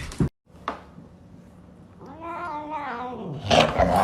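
A domestic cat giving one drawn-out meow about two seconds in, rising and then falling in pitch. Louder noise without a clear pitch follows near the end.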